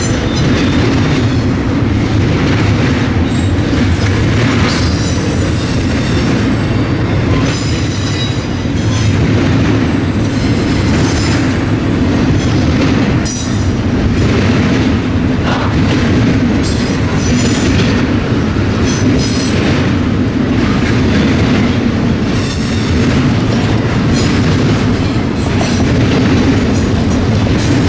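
Freight train cars rolling past at speed, with steady rumble and clicking of wheels over the rail, and thin high wheel squeals that come and go.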